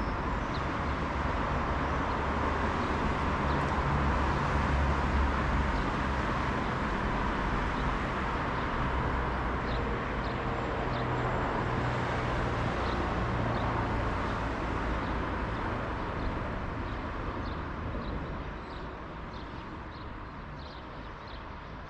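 A motor vehicle's engine running steadily with a low hum and rushing noise, loudest a few seconds in and fading away over the last few seconds, as if it is driving off.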